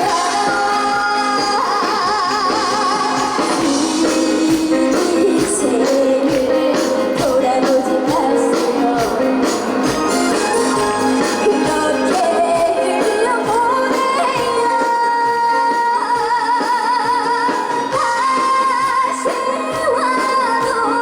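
Trot song performed live: a young female singer sings with a wide vibrato over an amplified backing track, with sustained held notes.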